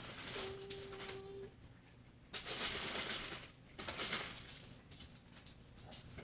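Items being handled while a mini fridge is stocked: a brief steady tone near the start, then two stretches of rustling and clatter around the middle.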